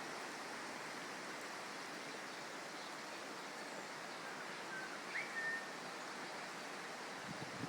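Floodwater rushing steadily down the swollen Deep Creek, an even constant hiss. A brief faint chirp about five seconds in.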